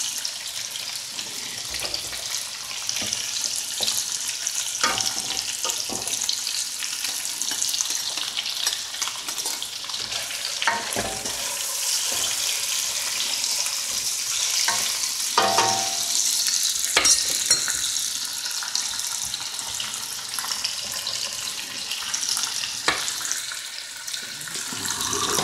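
Hot fat sizzling steadily as food fries: chips cooking in beef dripping and butter heating in a pan, with scattered short knocks of a utensil against the pan.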